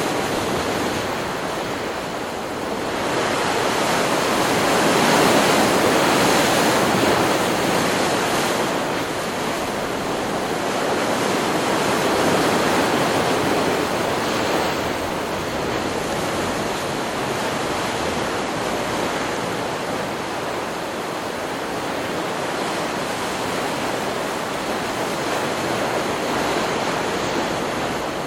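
Ocean surf: waves breaking and washing up a beach in a continuous rush that swells and eases every several seconds, loudest a few seconds in and again near the middle.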